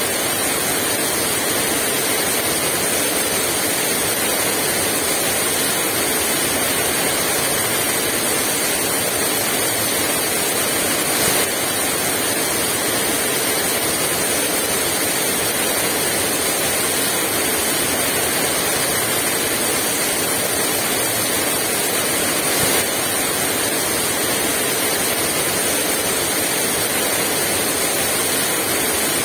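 Heavy rain falling steadily with no strong wind, an even hiss that swells briefly twice.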